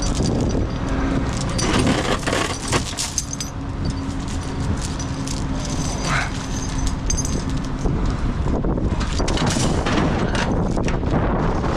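Wind buffeting the microphone, with repeated metallic clinks and rattles of tie-down chains being handled.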